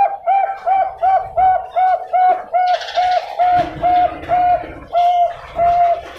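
Zebra dove (perkutut, Bangkok song type) cooing: a fast run of about sixteen short, evenly pitched coo notes, about three a second at first, slowing a little near the end.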